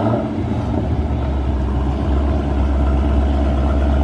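Dodge Scat Pack's 6.4-litre HEMI V8 catching just after a start and settling into a deep, steady idle.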